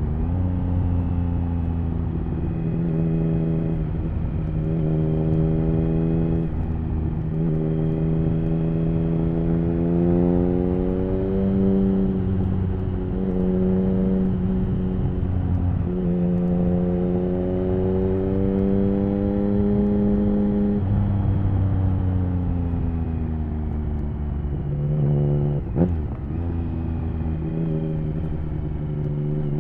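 Triumph Speed Triple 1050's inline three-cylinder engine through an HP Corse Hydroform exhaust, pulling through the gears with its pitch rising and breaking at each shift. Near the end the revs wind down, there is a single sharp crack, and the engine pulls up again.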